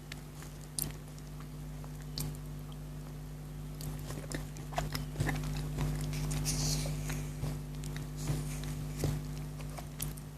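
A person chewing and biting chocolate close to the microphone: scattered small crisp clicks and crunches, busiest about six to seven seconds in, over a steady low hum.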